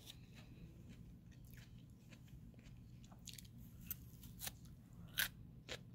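A person biting and chewing a slice of fresh raw cucumber: a string of short, crisp crunches, louder and more frequent in the second half.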